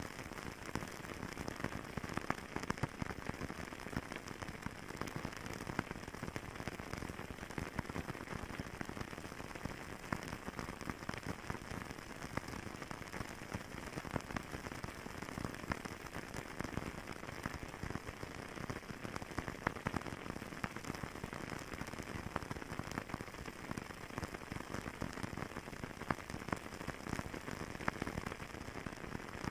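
Fireplace fire crackling steadily, a dense run of small pops and snaps over a soft rushing hiss.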